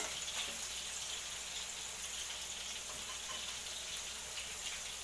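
Onion, tomato and ginger-garlic paste frying in oil in an enamel pot, a steady soft sizzle with spice powders just added on top.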